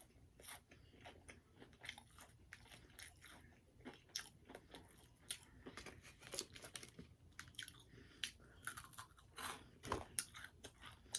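Faint, irregular crunching and chewing of crunchy breaded fried chicken tenders being bitten and eaten.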